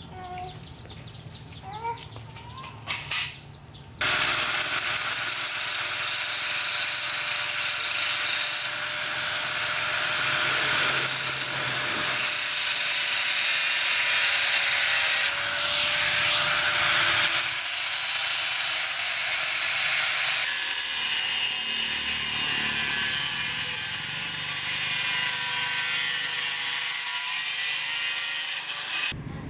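An electric power tool starts suddenly about four seconds in and runs continuously, with a steady whine under a loud, harsh hiss. It shifts slightly in pitch partway through and cuts off just before the end. A few faint chirps and clicks come before it starts.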